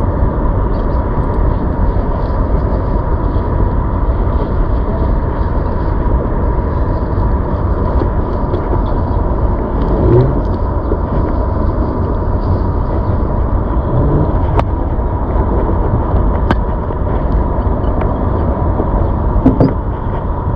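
Riding noise of a ZOOZ electric bike in motion: a steady heavy rush of wind on the microphone, with a thin steady whine running under it. A couple of sharp clicks come in the second half.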